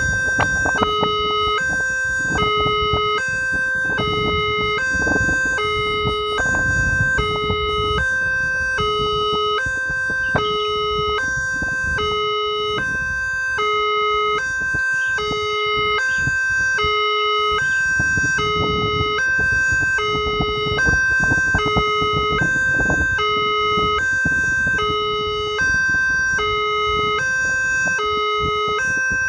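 Two-tone electronic warning siren from the horn loudspeaker of a Multec railway crossing barrier, switching between a low and a high tone with a full cycle about every second. A low rumbling noise runs underneath.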